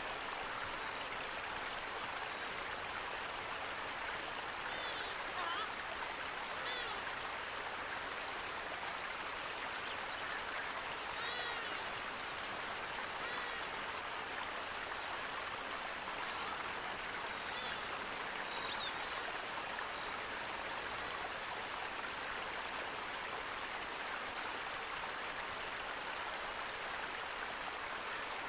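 Steady rushing water, with a few faint bird calls in the first two-thirds.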